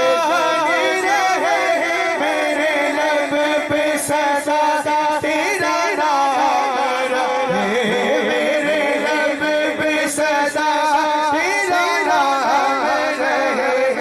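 Wordless musical interlude between verses of an Urdu naat: a melodic line that bends and wavers over a steady held drone.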